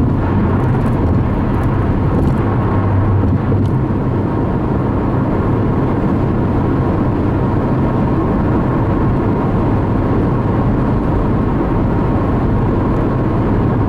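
Steady road and engine noise of a car cruising on a highway, heard from inside the cabin: an even rumble with a low hum and no separate events.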